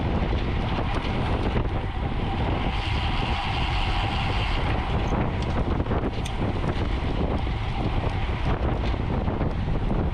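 Wind rushing over the microphone of a camera carried on a moving road bike, a steady loud rumble. A higher whirring rises over it for about two seconds a few seconds in.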